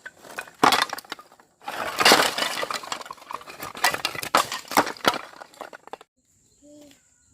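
Dense clattering and crackling of hard objects being handled, a quick run of sharp clicks and knocks that lasts about five seconds and stops abruptly about six seconds in.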